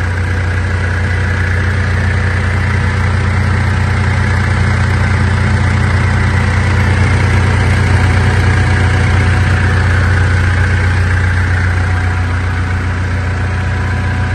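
Mitsubishi L200 Triton's 3.2-litre four-cylinder turbo-diesel idling steadily, freshly fitted with a new timing chain kit to cure a worn-chain noise.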